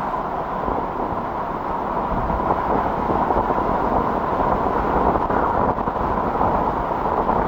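A steady vehicle or motor drone with a constant hiss, even throughout.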